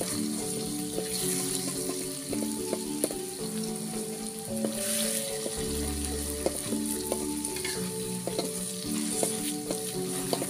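Beaten eggs and chopped spinach sizzling in an aluminium wok while a metal spatula stirs and scrapes, with frequent small clicks against the pan. Soft background music with held notes plays underneath.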